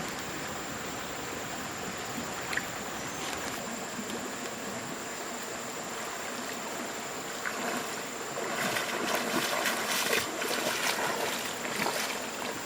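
Water trickling, with a louder stretch of splashing from about eight seconds in until near the end.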